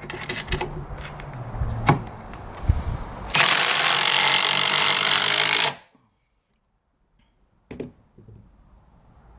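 Cordless impact drivers driving 4-inch lag screws, the Metabo HPT triple hammer and the Milwaukee Fuel Gen 1 side by side on their higher setting. The hammering turns much louder and denser about three seconds in as the screws bite hard, then cuts off abruptly a couple of seconds later. A single knock follows near the end.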